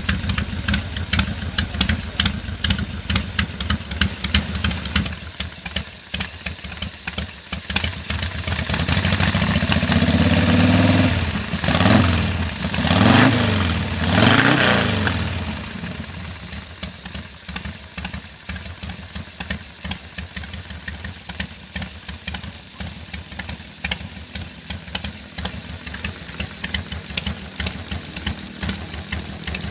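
Buell XB12S air-cooled V-twin motorcycle engine running on a newly fitted points ignition: idling with an even pulse, then revved up, with three quick throttle blips that rise and fall in pitch, before settling back to idle.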